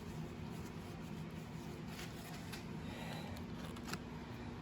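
Quiet workshop room tone: a steady low hum with a few faint clicks from small parts being handled, about two and four seconds in.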